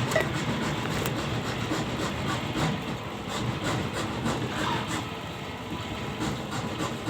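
A motor running steadily with a continuous rattle.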